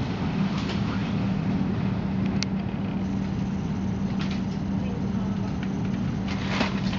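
Steady hum and rumble inside a train carriage as the train starts to pull out of a station, with a few light clicks and a brief rush of hiss near the end.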